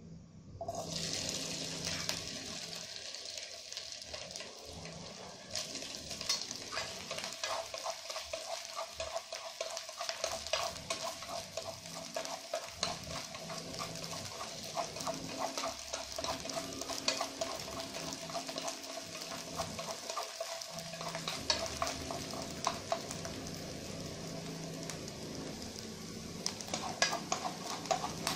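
Diced sausage frying in hot oil in a nonstick pan: a sizzle that starts suddenly about a second in, as the pieces go into the oil. Wooden chopsticks click and scrape against the pan as the pieces are stirred.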